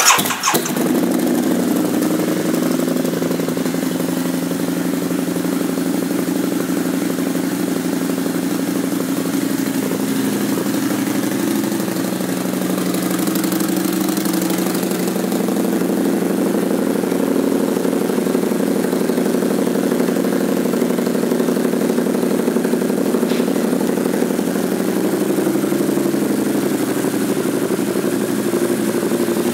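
Harley-Davidson VRSCDX Night Rod's liquid-cooled Revolution V-twin fitted with Vance & Hines pipes, firing up at the start and then idling steadily.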